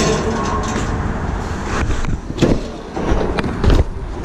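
City street noise: a steady low traffic rumble, with a few sharp knocks, the loudest about two and a half seconds in and near the end.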